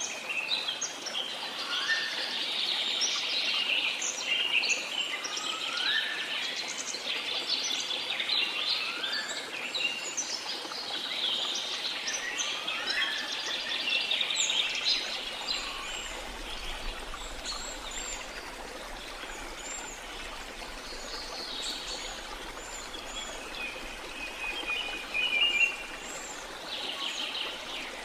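Many birds chirping and calling over the steady rush of a waterfall, with one rising call repeated every three seconds or so through the first half.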